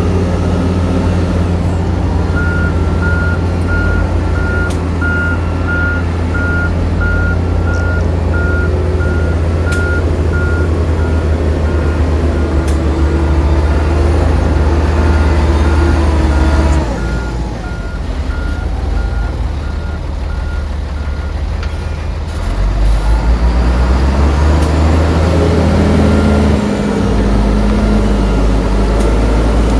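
Heavy diesel machine running with its reversing alarm beeping steadily about twice a second; the engine eases off partway through, then revs up again near the end.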